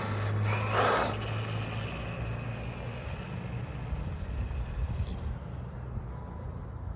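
A 12S brushless-electric Traxxas XRT RC truck with a belt drive running. It starts with a steady low hum that drops away about two seconds in, leaving a quieter, even rumble as it moves off.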